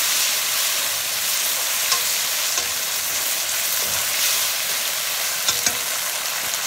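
Chicken strips and sliced onion sizzling in a hot wok while being stirred with chopsticks: a steady frying hiss. A few sharp clicks of the chopsticks against the pan, two of them close together past the middle.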